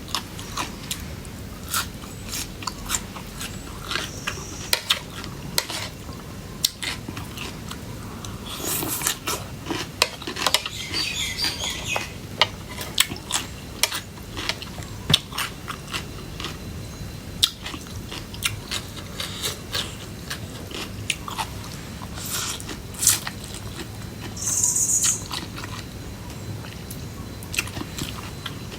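Close-miked chewing and biting of Thai cucumber salad: many short wet mouth clicks, with a few louder crunchy bites about nine, eleven and twenty-five seconds in.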